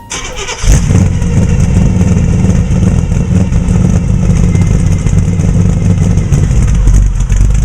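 Built 327 V8 of a 1950 Chevy street rod, coming in suddenly about a second in and then running steadily and loudly with a deep rumble.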